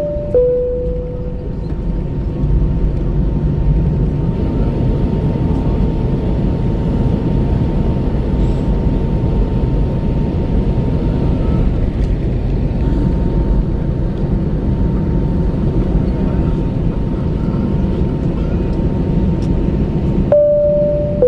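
Steady low cabin rumble of an Airbus A321 taxiing after landing, with a faint steady hum above it. Near the end the cabin chime sounds, a higher note followed by a lower one.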